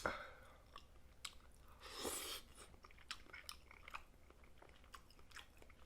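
Close-miked chewing of butter-sauced snow crab meat: faint wet mouth clicks and smacks, with a soft, longer smack about two seconds in.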